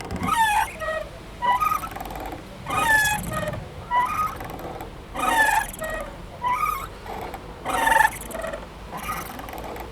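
Squeaky playground swing: its metal hangers squeak in rhythm with the swinging, a short high squeak that glides in pitch about every second and a quarter, eight or so in all.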